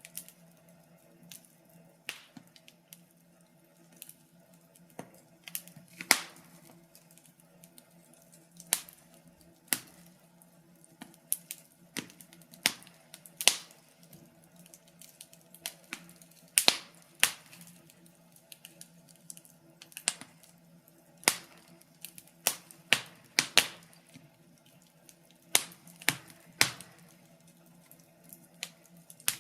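Wood fire crackling: irregular sharp pops and snaps, some much louder than others, over a faint steady hum.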